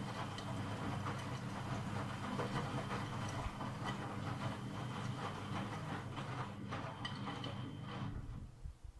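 Miele W Classic washing machine running: a steady motor hum with irregular clattering and swishing that cuts off about eight seconds in.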